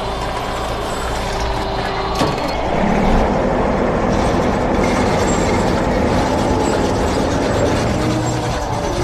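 Machinery sound effect: a vehicle engine running with a steady mechanical clatter, a sharp click about two seconds in and a slightly louder stretch after about three seconds.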